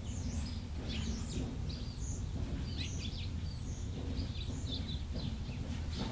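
Small birds chirping and twittering, many short high calls in quick succession, over a steady low background rumble.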